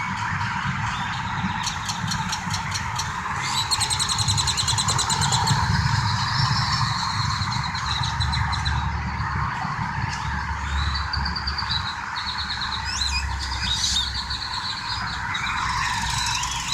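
Steady low rumble of vehicle engines and traffic, with birds chirping and trilling high above it in several bouts.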